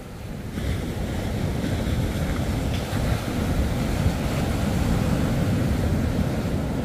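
Surf breaking and washing up the beach, with wind buffeting the microphone. The rush of water swells about half a second in and stays loud.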